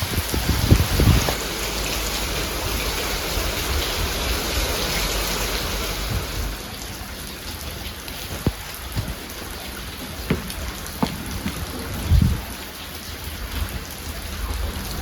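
Steady rain falling, with a low rumble in the first seconds and a few short knocks and drips later on.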